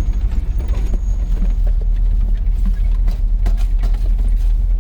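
Inside the cab of a 1983 GMC C2500 pickup on the move: a steady, deep engine and road rumble, with scattered small clicks and rattles from the cab.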